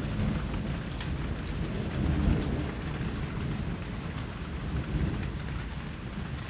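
Steady rain falling, a dense even hiss of drops, with a low rumble that swells up about two seconds in and again near five seconds.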